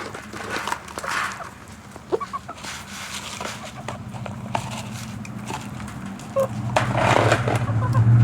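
Chickens clucking around a person in their pen, with scattered rustles and knocks. A low hum grows louder near the end.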